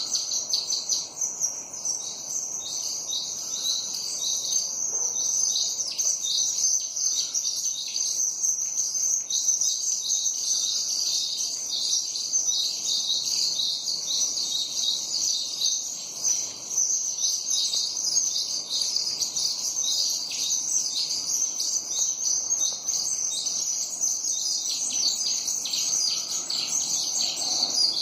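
A flock of sparrows chirping, many short high chirps overlapping in a continuous chatter.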